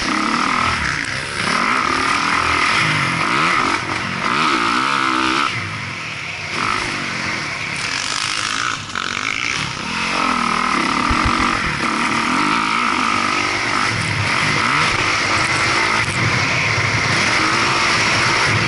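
Motocross dirt bike engine revving hard and easing off again and again, its pitch climbing and falling as it is ridden around the track.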